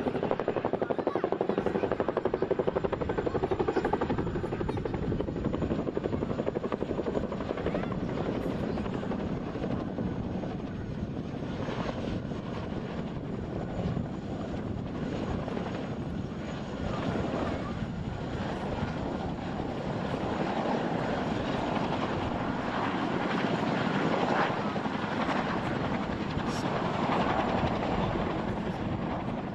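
Helicopter in flight, with a steady, rapid rotor chop over continuous engine noise. A faint high steady whine fades away over the first half.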